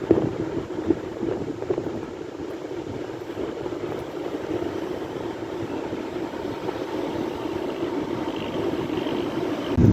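Sea surf: a steady wash of breaking waves with no clear gaps.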